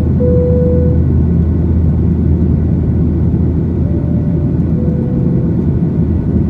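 Steady low cabin rumble of a Boeing 737-800 in flight, its CFM56-7B engines and the airflow heard from a seat over the wing during descent. A thin steady tone sounds through it for about a second near the start, and fainter again later.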